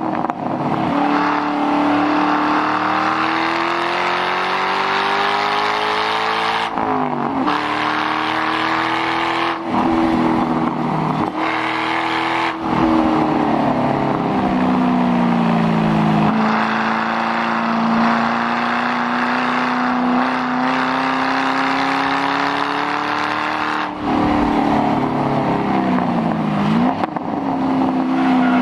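2006 Ford Mustang GT's 4.6-litre V8 through a muffler-delete exhaust, driven hard on a track. The engine note climbs steadily in each gear and drops sharply at several gear changes before climbing again.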